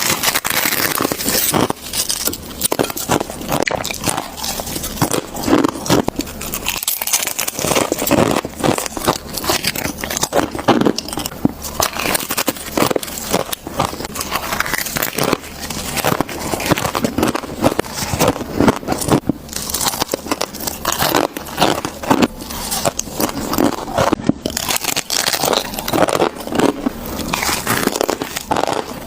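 Freezer frost being bitten and chewed, a dense run of crunches and crackles one after another.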